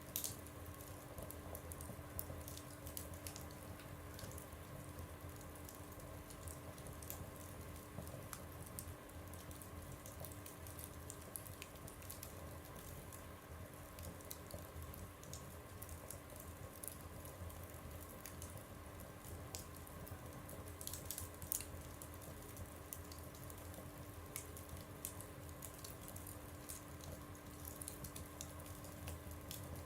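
Wood fire burning in a stove, crackling with scattered small pops. A few sharper pops stand out, one right at the start and a cluster about 21 seconds in.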